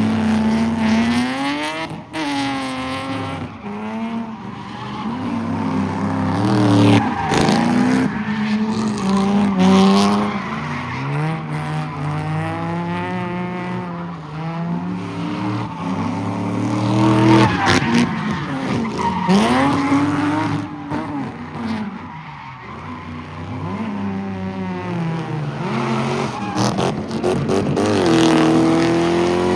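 Car engine revving hard, its pitch repeatedly rising and falling, with tires squealing as a car spins in a pit.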